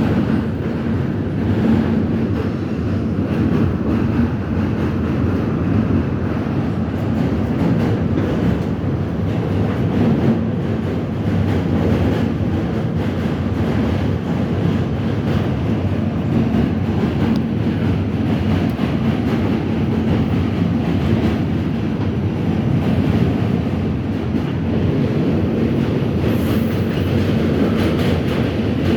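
R68 subway train running along the track: a steady, loud rumble with rapid wheel clicks over the rail joints.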